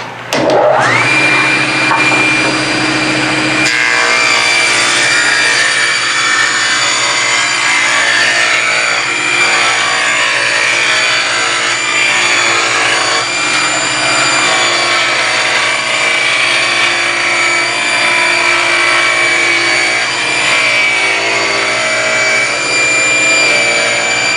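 Table saw starting up, its whine rising to full speed within about half a second. About four seconds in, the blade starts ripping a narrow quarter-inch strip off a board fed with a push block, and the cut runs steadily.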